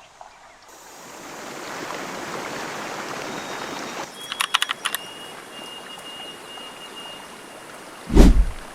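Stream water rushing steadily, fading in about a second in. About four seconds in comes a quick run of sharp high ticks, then a thin steady high whine for a few seconds, and near the end a single loud low thump.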